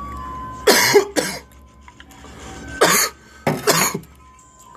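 A man coughing: two pairs of short, hoarse bursts, the first about a second in and the second about three seconds in.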